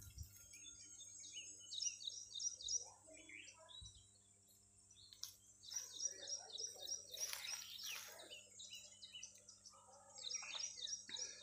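Faint birdsong: quick runs of short, high chirps, with a lull about four seconds in before the chirping picks up again.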